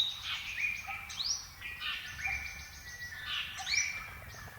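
Several small birds chirping, with short calls overlapping several times a second.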